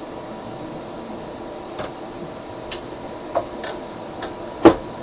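Geeetech A20 3D printer with its fans humming steadily, and a few sharp clicks and knocks from the print bed being handled, the loudest near the end. The bed is loose and wobbly on its eccentric nuts.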